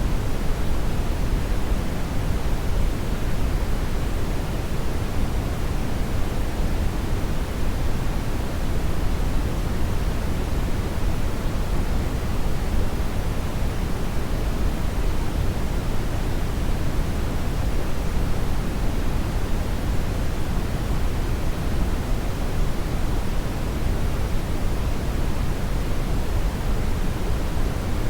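A hair dryer running steadily: an even, unchanging rush of air, fuller in the low end, with no audible motor whine.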